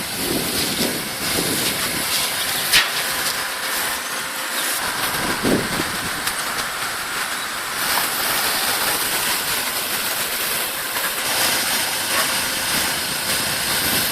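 Excavator working: a steady hiss of engine and machinery noise, with a sharp click about three seconds in.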